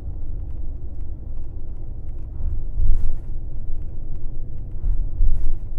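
Airport limousine bus on the move, heard from inside the cabin: a steady low rumble of engine and road, with two louder jolts about three seconds and five seconds in.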